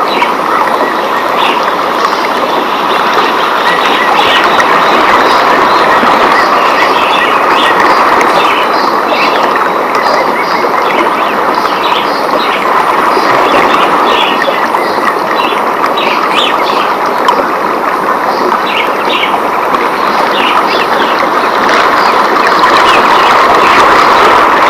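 Rainforest ambience: a steady, loud rush of rain, with many short bird chirps scattered high above it.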